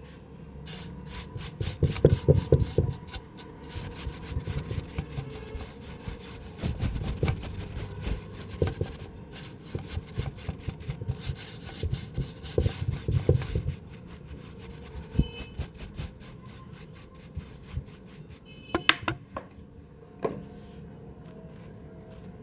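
Dry mud crumbling and scraping in a pot: a dense run of crackles and gritty rubbing, with a few louder bursts, thinning out to scattered crackles after about fourteen seconds.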